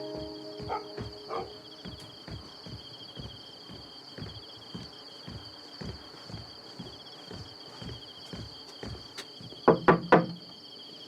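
Crickets chirping steadily in night ambience, with soft low thuds about twice a second. Near the end, three loud sharp thuds come in quick succession.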